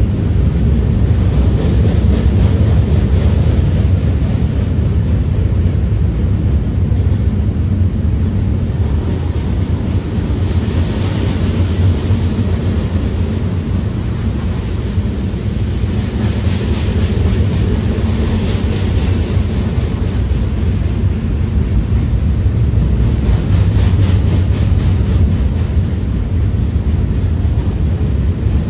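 A train rumbling past, a loud, steady low rumble that swells a little about a third and two thirds of the way through.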